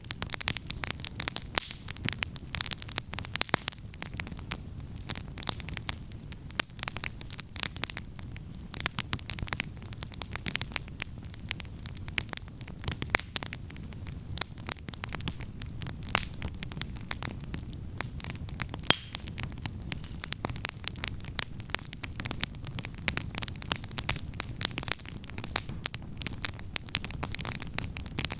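Wood campfire crackling, with dense irregular sharp snaps and pops over a low steady rumble.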